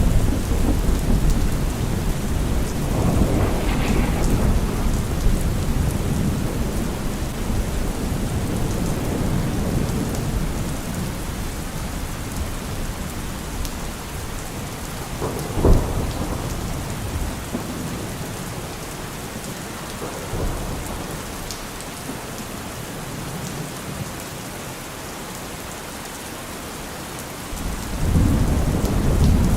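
Heavy rain falling on a car roof, a steady hiss, with thunder: low rumbling near the start, a sharp short thunderclap about halfway through, and a new rumble building near the end.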